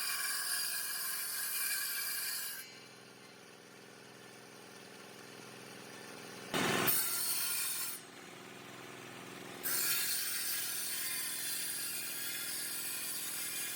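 A power tool working palm wood, with noise and steady high tones, stops about two and a half seconds in. It gives one loud burst of about a second and a half near the middle, then runs steadily again from about ten seconds in.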